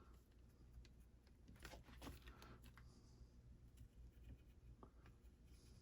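Near silence: faint, scattered scratches and ticks of a pen tracing a design through carbon paper, over a low room hum.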